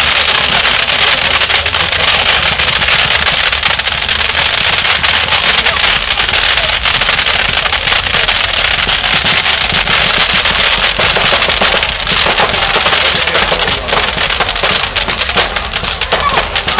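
Fireworks going off in a dense, continuous barrage of crackles and bangs, the volleys becoming more separate near the end.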